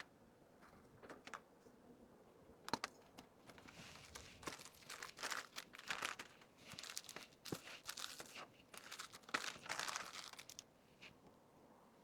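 Plastic packaging crinkling in short bursts as it is handled, with a few sharp clicks and taps; the crinkling is heaviest from about four seconds in until near the end.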